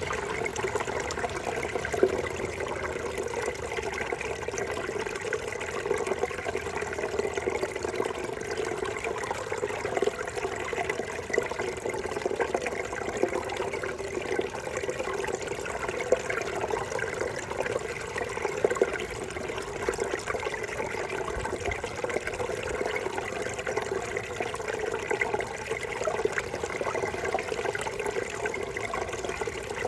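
A small brook babbling over stones, a steady splashing and gurgling with no pauses.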